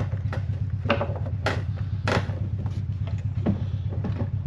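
A steady low hum throughout, with about six short clicks and knocks as fuel pump and sending unit parts are handled.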